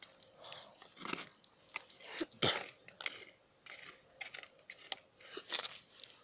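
Stick poking and stirring the embers of a burnt-down campfire: irregular crunching and crackling as the coals are turned over.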